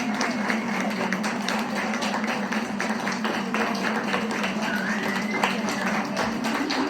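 Audience clapping at a small live acoustic show, over a steady held low note, with a short whoop or whistle about five seconds in.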